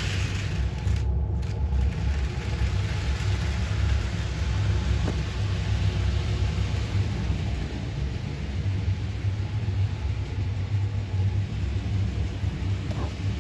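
HO-scale Bachmann Rebecca model locomotive running on its track, its electric motor and wheels making a steady low rumble.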